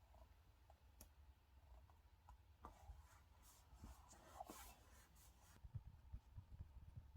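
Faint pen writing on a paper diary page, with a few small taps and short rustles of handling, busiest past the middle.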